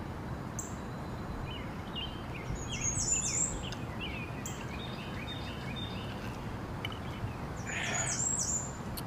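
Birds chirping in two bouts of quick, high calls, one in the middle and one near the end, over a steady low background noise.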